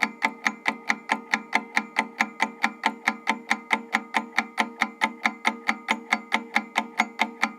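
Countdown-timer ticking sound effect: quick, even clock-like ticks, about five a second.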